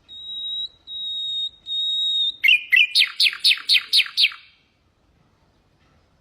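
Common nightingale singing: three long, steady, pure whistled notes, each swelling in loudness. About two and a half seconds in, a fast run of about eight downward-sweeping notes follows, and the song stops after about four and a half seconds.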